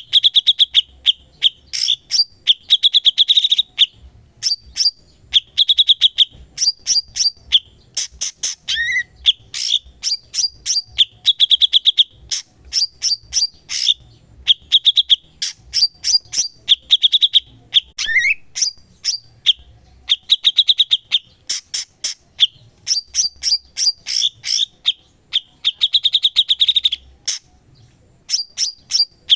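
Cucak cungkok singing continuously. It repeats a phrase every couple of seconds: a rapid rattling trill, then a string of sharp, quick chattering notes. A short rising whistle cuts in twice.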